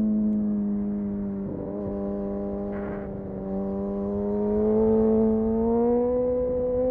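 Kawasaki Ninja engine through an Arrow exhaust with the dB killer removed, heard while riding. The note holds fairly steady with a brief break about a second and a half in, then revs rise steadily over the last few seconds as the bike accelerates.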